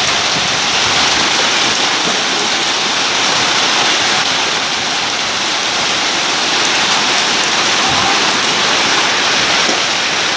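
Hailstorm with heavy rain pelting down: a loud, steady, dense hiss made up of countless small hits.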